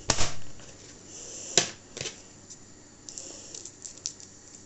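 Kitchen work sounds: a few sharp knocks of utensils on a worktop or chopping board, a loud one at the start and another about a second and a half in, with light scraping and small clicks between them.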